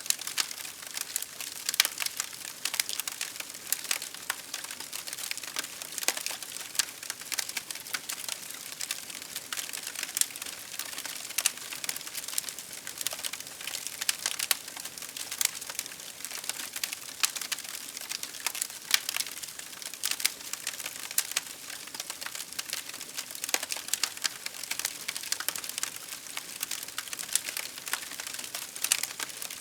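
Wood fire crackling: a dense stream of irregular sharp pops and snaps over a steady hiss.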